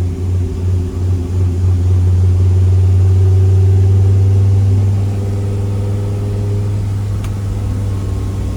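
Dodge Viper V10 race engine idling while it warms up, its oil still below temperature. Heard from inside the car, it runs a little louder for about three seconds in the middle, then settles back to a steady idle.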